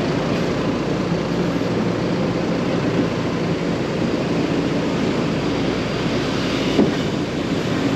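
Steady running noise of a passenger tram heard from aboard, its engine and wheels making an even rumble, with a brief knock about seven seconds in.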